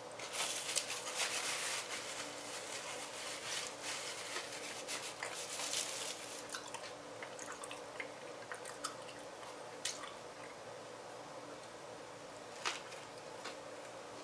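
A person chewing mouthfuls of a sub sandwich, with irregular wet smacks and clicks, busiest in the first few seconds, over a faint steady hum.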